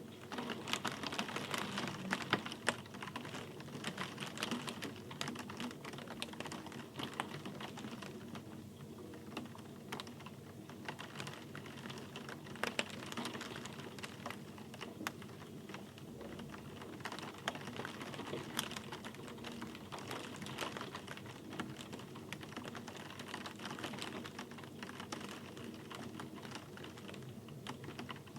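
Rain falling: a steady hiss with many dense, irregular drop clicks striking a hard surface close by.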